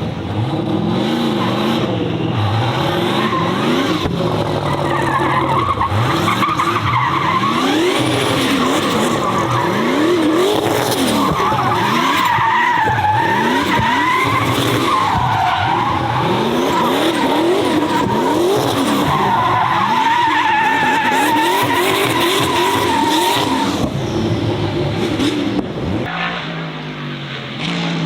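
A car drifting: the engine revs up again and again, about once a second, while the tyres squeal in a long wavering screech that fades away near the end.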